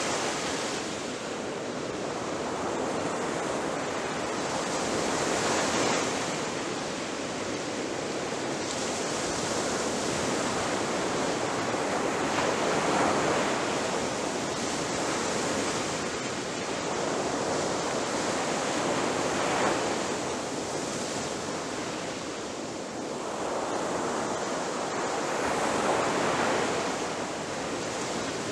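Ocean surf: waves breaking on a beach in a continuous wash, swelling and falling back every several seconds.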